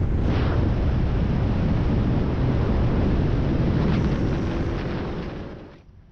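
Fox-body Mustang 5.0 V8 running, a loud deep exhaust rumble that fades away quickly near the end.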